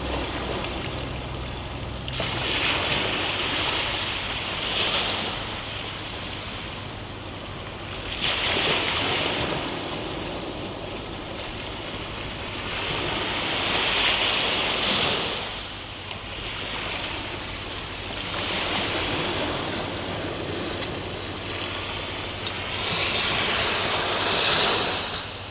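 Ocean waves breaking on a shore: a rushing surge that swells and falls back about five times, every four to six seconds.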